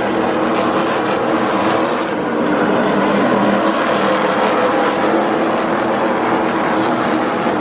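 A pack of NASCAR Truck Series race trucks running at speed around a short oval, their V8 engines blending into one steady, loud drone.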